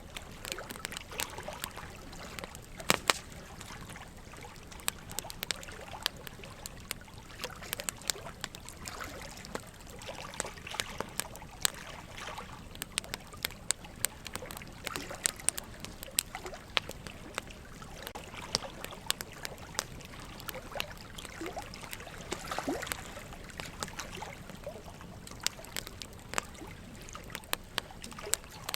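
Wood fire crackling with frequent irregular sharp pops, over a steady trickle of running water.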